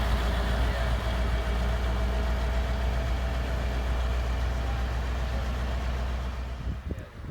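Heavy truck diesel engine idling with a steady low rumble. It fades out near the end.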